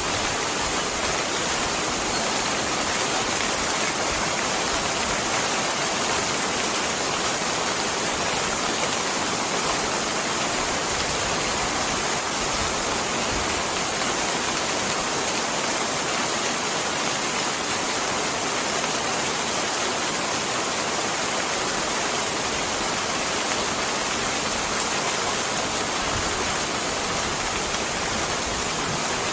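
Steady, even rain falling, a continuous hiss with no breaks or distinct drops standing out.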